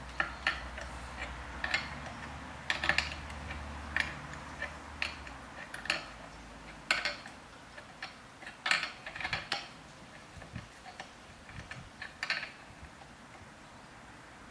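Irregular sharp metallic clicks and clinks of hand tools and metal parts being handled, over a low hum that stops about five seconds in.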